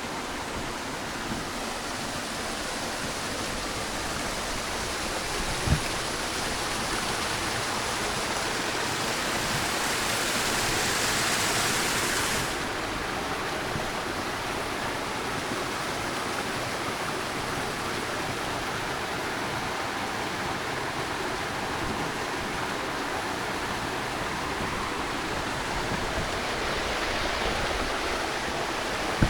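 Steady rushing of a flowing river, an even hiss of water. About eight seconds in it grows brighter and louder, then drops back suddenly a little before halfway.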